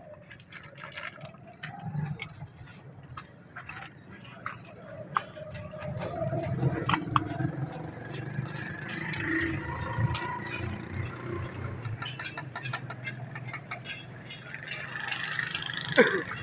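Irregular metal clinks, knocks and scraping of tools and engine parts being worked on, with indistinct voices in the background.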